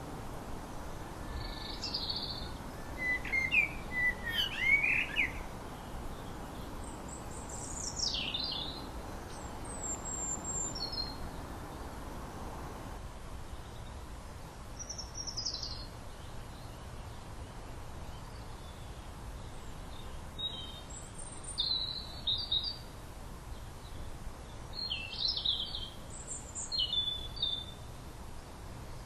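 Wild songbirds calling and singing in short high chirping and whistled phrases every few seconds, some sliding downward in pitch, over a steady low outdoor background hiss.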